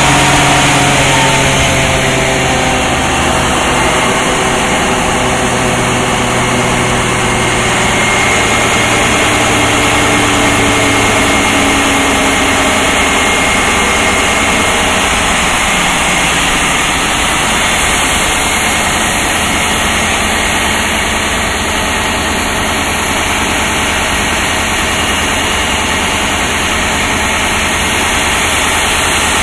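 DB class 218 diesel locomotive's MTU diesel engine running loud and steady. A pitched engine note in the first ten seconds or so gives way to an even, dense running sound, with a thin high whine around the middle.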